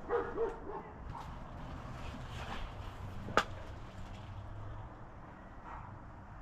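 A dog giving a few short, high yips or whines in the first second. About three and a half seconds in comes a single sharp click or knock.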